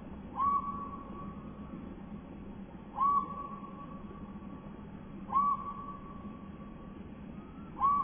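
Slowed-down bird call: a whistled note that sweeps up sharply and then holds level, repeated four times about every two and a half seconds, over a steady low background hum.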